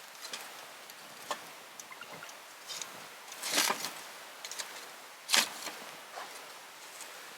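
Wood campfire crackling, with scattered sharp snaps over a soft hiss; a louder pop-and-hiss about three and a half seconds in and the loudest crack about two seconds later.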